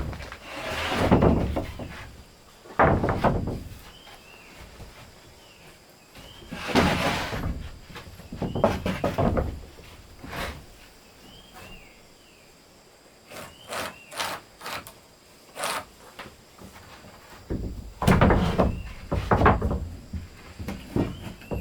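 Hand woodworking on wooden boards: irregular scraping strokes and knocks of wood, with a run of sharp clicks near the middle.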